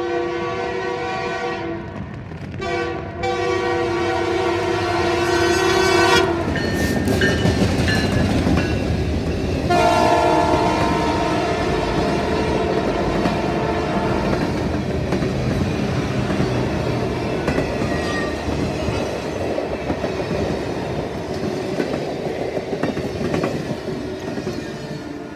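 Train locomotive horn sounding for a level crossing: a long blast broken twice by short gaps, then a second blast about ten seconds in as the locomotive passes with a loud rush. After that the cars roll by with steady wheel noise and clickety-clack over the rail joints, fading near the end.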